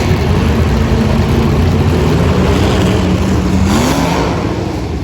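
Demolition derby car engines running loud, one revving up about four seconds in.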